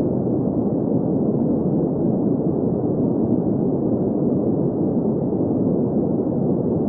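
Steady green noise: an even, unchanging hiss with most of its energy in the middle and lower range, muffled, with no high treble.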